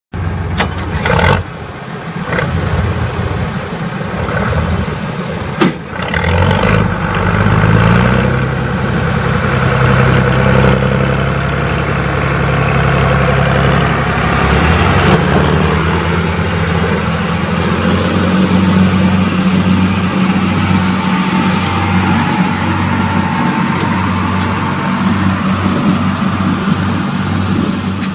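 Large farm tractor's diesel engine running. Its pitch climbs about six seconds in, then holds steady.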